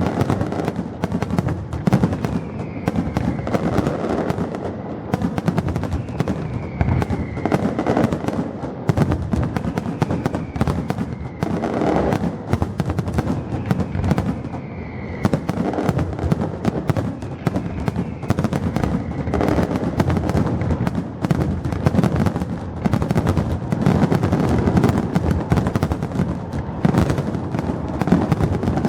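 Fireworks display: a continuous, dense barrage of bangs and crackling, with a few faint whistles falling in pitch scattered through it.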